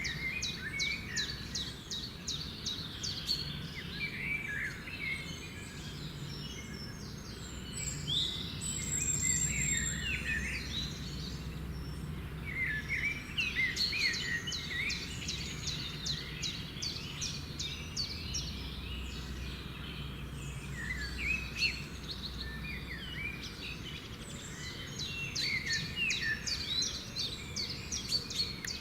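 Several wild birds chirping and calling, with quick runs of rapidly repeated high notes coming in clusters, over a low steady background rumble.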